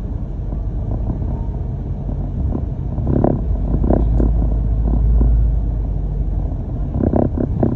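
Low, steady rumble of a London double-decker bus's engine and road noise as heard from inside the bus, growing louder around the middle before easing back.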